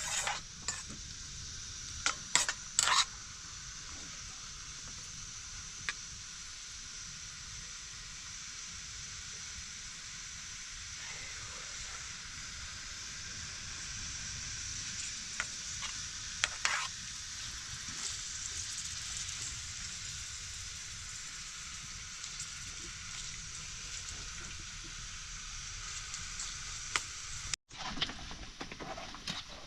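A steady sizzling hiss with a low rumble underneath, broken by a few short sharp knocks, a cluster of them near the start and another in the middle.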